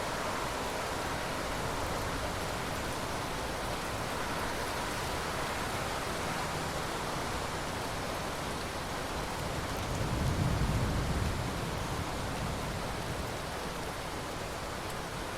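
Steady, even rain. About ten seconds in, a low rumble of thunder swells briefly and fades.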